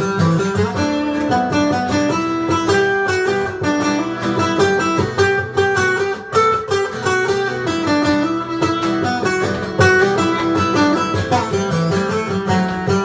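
Instrumental break in a band's performance: a guitar plays a single-note melody over a steady drum beat and bass, with no singing.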